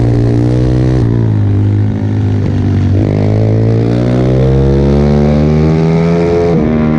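Pit bike's single-cylinder engine at racing revs. The note falls away about a second in as the bike slows, then climbs steadily for several seconds under acceleration. Near the end it drops sharply and picks up again as the bike shifts up a gear.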